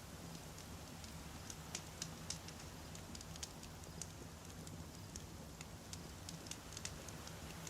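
Wood campfire crackling: irregular sharp pops and snaps of burning firewood, several a second, over a steady low rumble of the flames.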